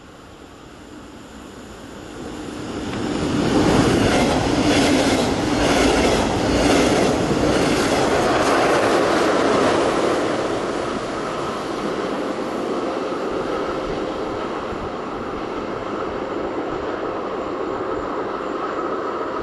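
An electric locomotive-hauled regional train approaches and passes at speed, loudest a few seconds in, with a rhythmic clickety-clack of wheels over rail joints. The rumble then eases off as it moves away but stays audible.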